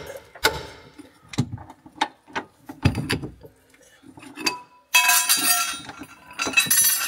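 Metal tools clinking and tapping against steel suspension parts, then a dense metallic rattling, like a ratchet or mechanism, about five seconds in and again briefly near the end.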